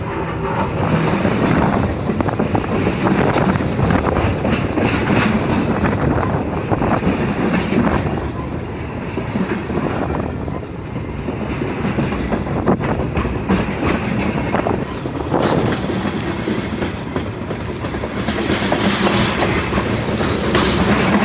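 Freight train cars rolling slowly past at close range: a steady rumble with the wheels clacking over the rail joints.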